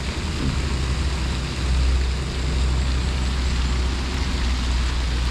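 Steady deep rumble under an even hiss of outdoor walking ambience, with no distinct events.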